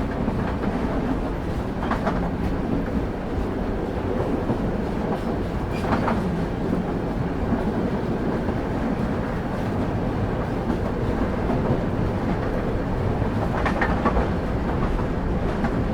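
Railway carriage wheels running on the track: a steady low rumble of a moving train, with three sharper clacks from the rails spread through it.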